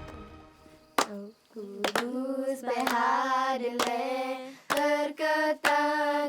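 Voices singing long, held notes in a chant-like line, marked by sharp, irregular percussive strikes, starting after a brief lull and a first strike about a second in.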